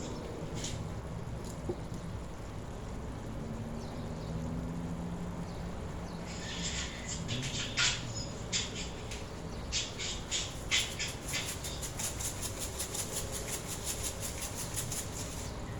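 Kitchen utensil work: scattered clicks and knocks, then a fast, even run of sharp tapping strokes at about four a second, over a low steady hum.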